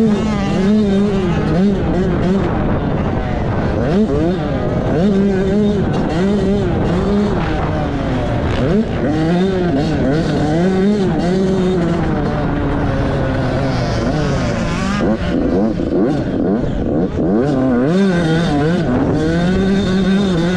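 Dirt bike engine under hard riding, revving up and dropping back over and over as the throttle is worked and gears change.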